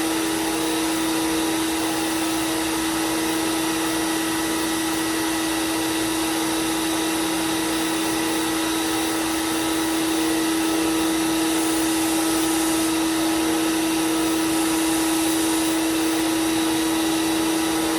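Belt sander running steadily with a constant hum and whir as a knife is sharpened on the belt; twice in the second half a brief added hiss comes as the blade is passed over the belt.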